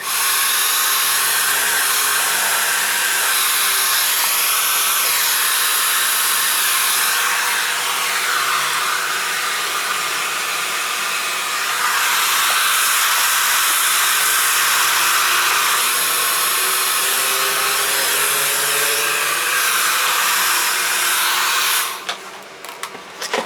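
Hair dryer blowing steadily, its tone shifting a little about halfway through, then switched off near the end.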